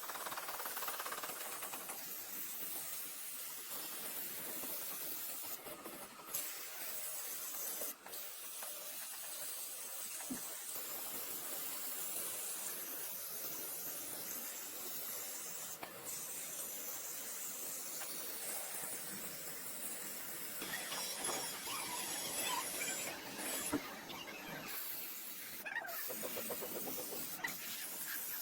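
A steady hiss, strongest in the high range, with a few faint clicks and knocks.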